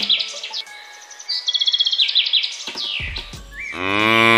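European bee-eater calling: two bouts of rapid, rolling trilled calls. Near the end a cow starts a long, loud moo.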